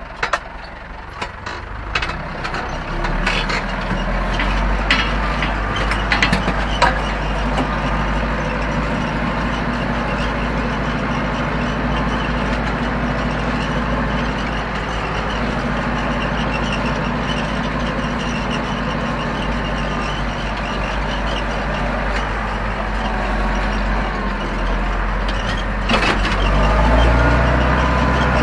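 Zetor 7245 tractor's four-cylinder diesel engine running steadily under the load of ploughing, with a few knocks and rattles in the first several seconds. The engine gets louder near the end.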